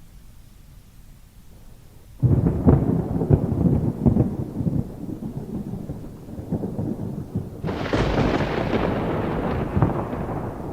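Thunder over faint rain: a sudden close crack about two seconds in that rumbles on and fades, then a second sharp crack near the end that rolls off slowly.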